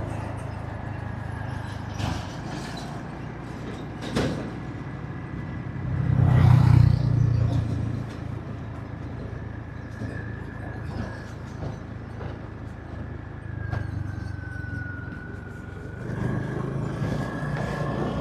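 Motorbike ride in traffic: a steady engine hum with road noise. About six seconds in, the low rumble of a passing heavy vehicle swells and fades.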